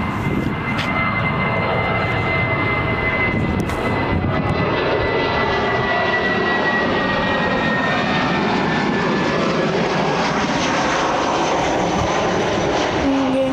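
Jet airliner's engines passing close by with a loud, steady roar, and a high fan whine that slowly falls in pitch as the aircraft goes past.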